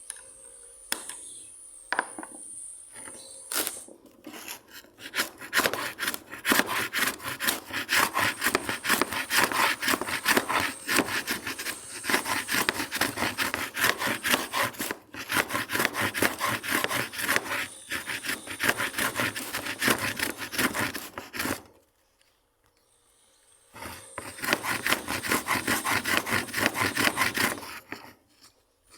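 Fast back-and-forth strokes of a tool scraping or rubbing on wood, a few strokes a second. A long run stops suddenly, and after a short pause a shorter run starts again.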